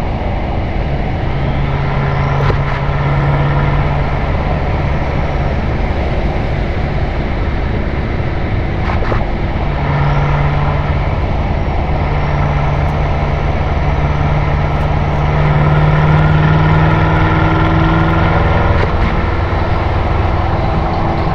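BMW M6 Gran Coupe's twin-turbo V8 droning steadily through an Akrapovič Evolution Line exhaust at highway cruising speed, under tyre and wind noise, recorded outside the car. The engine note swells slightly about three-quarters of the way through.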